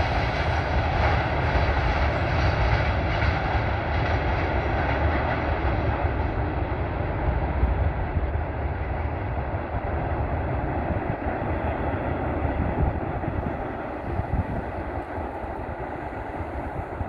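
Freight train of tank wagons rolling away, a steady rumble of wheels on rails that slowly fades as the tail of the train recedes.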